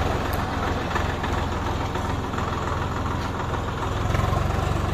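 Tractor diesel engine running at a steady idle, its firing pulses even, swelling slightly about four seconds in.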